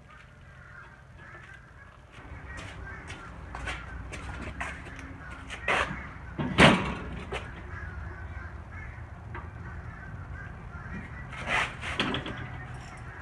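Harsh bird calls outdoors, several short cawing calls, the loudest about halfway through and another pair near the end, over a faint low hum.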